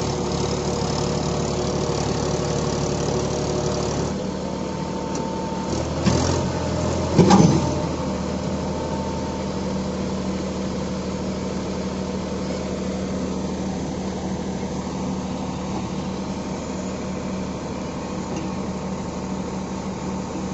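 Heavy diesel machinery engine running steadily, its pitch changing slightly about four seconds in, with one short louder burst about seven seconds in.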